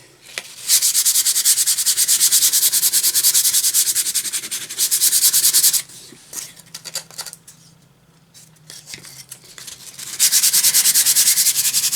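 Fine-grit sandpaper rubbed by hand over a wooden cutout in quick back-and-forth strokes. It comes in two bouts, the first about five seconds long, then a few seconds of lighter scraping, then the strokes start again.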